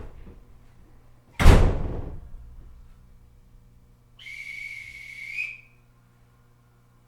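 Inside a stationary E127-series electric train car: a loud door thud about a second and a half in, then a whistle blast of just over a second about three seconds later.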